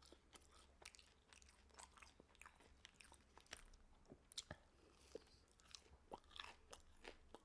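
Faint, close-up chewing of chicken nuggets: scattered soft mouth clicks and smacks.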